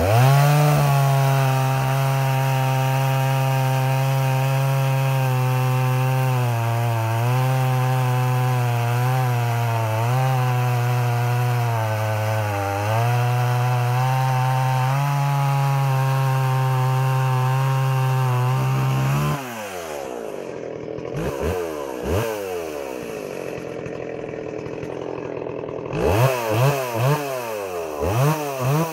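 Stihl 038 Magnum two-stroke chainsaw held at full throttle while cutting wood, its pitch dipping briefly several times as the chain takes load. About two-thirds through it drops back to idle, then gives a few single revs and a quick run of throttle blips near the end.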